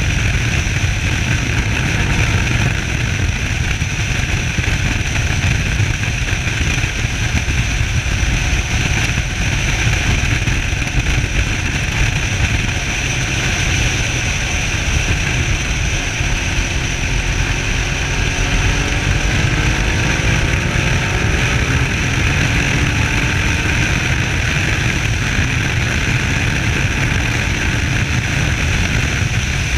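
Suzuki SV650S V-twin engine running on the move, heard from the rider's chest under heavy rumble and rush. Past the middle its note climbs gently for several seconds.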